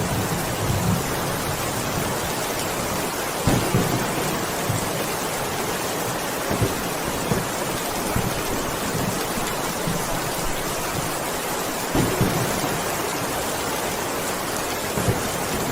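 Heavy rain falling steadily as a dense, even hiss, with a few short low thumps mixed in.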